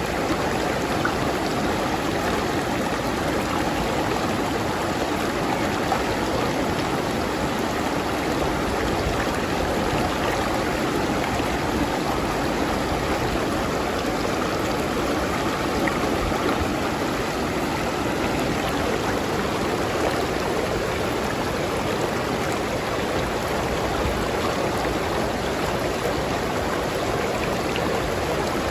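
Steady flow of a river stream: continuous rushing and babbling water with no breaks or changes.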